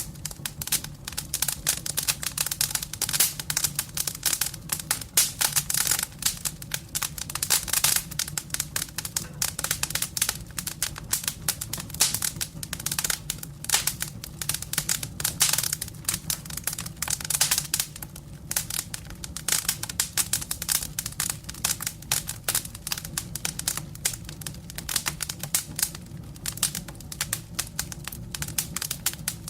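Wood fire in a fireplace crackling steadily: dense, irregular pops and snaps over a low steady hum.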